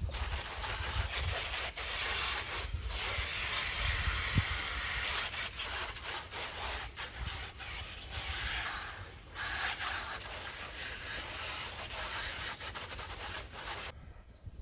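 Sandpaper being rubbed over a car's bumper panel to prepare it for paint. It makes a steady rasping scrub with a couple of short breaks and stops near the end.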